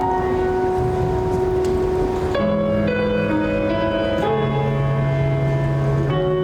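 Instrumental music: sustained keyboard chords, held notes changing to a new chord every second or two.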